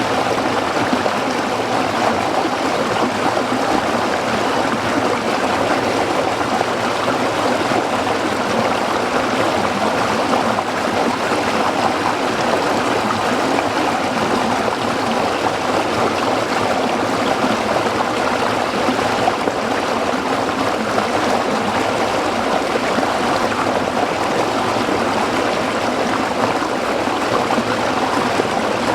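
Stream water flowing and splashing steadily over rocks.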